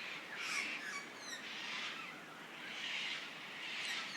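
Cockatoos screeching: three harsh calls about a second apart. Smaller birds chirp in quick falling runs in between.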